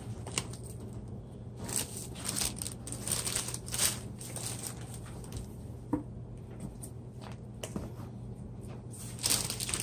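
Plastic food packaging rustling and crinkling as it is handled, with scattered light clicks and knocks.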